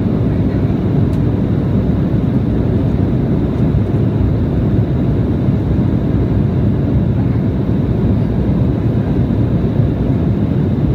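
Steady cabin noise inside an Embraer E175 regional jet: the even drone of its General Electric CF34 turbofans and airflow past the fuselage, deep and unchanging, with a faint thin high whine above it.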